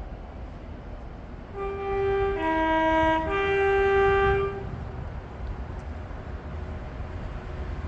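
Two-tone horn of a GBRF freight train locomotive, sounded high, low, then high again for about three seconds, over the low rumble of the train running through.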